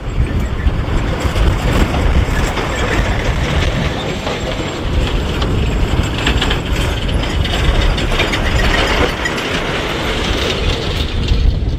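Kubota M6040SU tractor's diesel engine running while mud plowing, with steady metallic rattling and clanking from the tractor and its implement.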